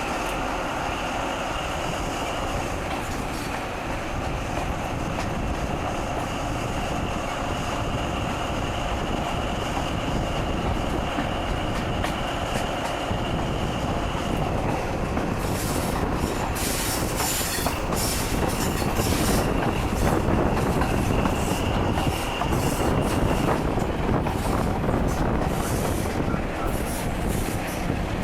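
Preserved InterCity 125 HST running along the track, with a steady rumble of wheels on rail. A thin, high wheel squeal is held through roughly the first half and returns briefly later. From about halfway there is a rapid clicking rattle and the sound grows a little louder.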